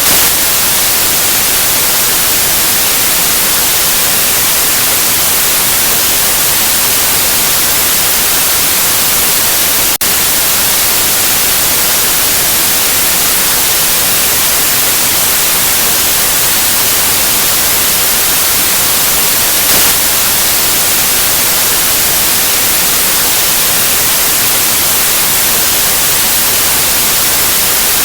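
Steady electronic white noise, an even hiss across all frequencies with the most energy in the highs, with a momentary dip about ten seconds in.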